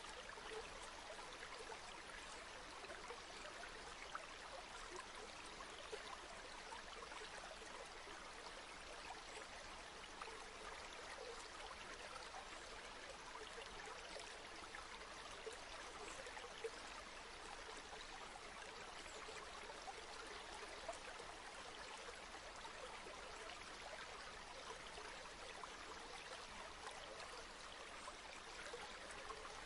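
River water flowing steadily over stones, a constant low rush with fine splashing and trickling.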